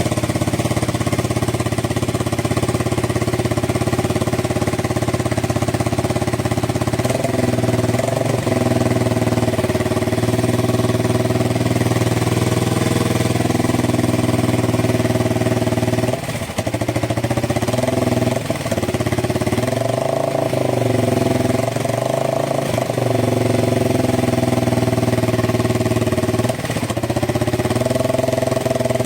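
Yamaha TW200's single-cylinder four-stroke engine running through an aftermarket Gatling-style muffler, mostly idling steadily. The engine pitch changes briefly several times, as if the throttle were being blipped.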